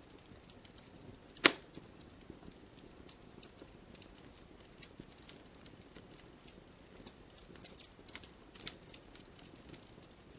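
Campfire crackling: a soft hiss with scattered small snaps, and one loud pop about one and a half seconds in.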